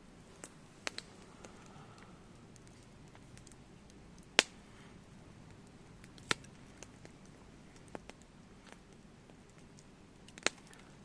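Wood campfire burning with irregular sharp pops and crackles, three of them loud, the rest faint, over a quiet low hiss.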